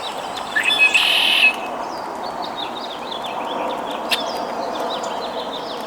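Wild birds chirping and calling, with a louder, harsher call about a second in lasting under a second, and a single sharp click a little past the middle.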